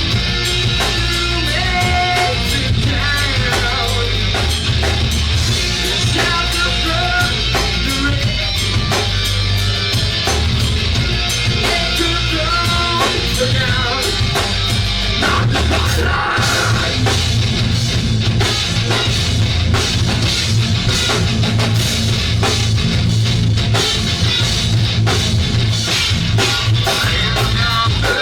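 Live rock band playing loud with drum kit and electric guitar, and some singing.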